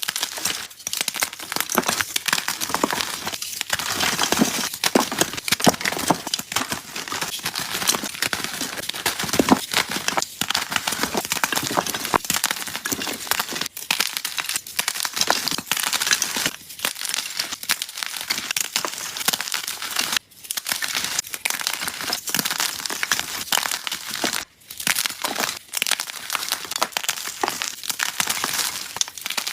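Gym chalk being crushed and crumbled close to the microphone: a dense, continuous crunching and crackling made of many fine cracks, with two brief breaks in the last third.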